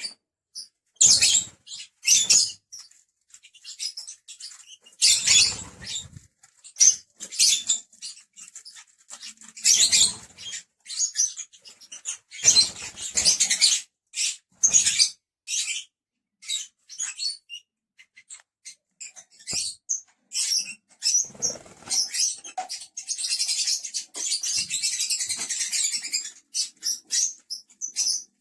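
Lovebirds chirping and squeaking in short, shrill bursts, running together into a longer spell of chatter near the end.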